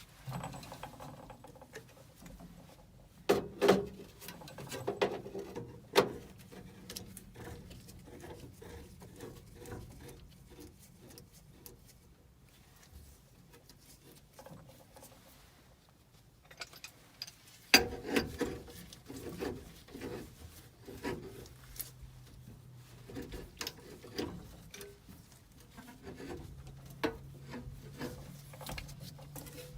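Clicks, knocks and scraping of hand tools and metal parts as work goes on at a gas furnace's gas valve, in two busy bursts with quieter handling between. A faint low hum comes in toward the end.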